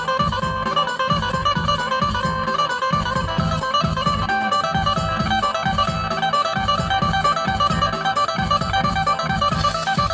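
Isan phin, the Thai plucked lute, playing a quick, busy melody over a steady low beat.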